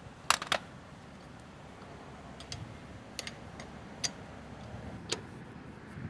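A handful of sharp, separate metal clicks and clinks from hand work at a truck's wheel: two close together just after the start, then single ones about a second apart.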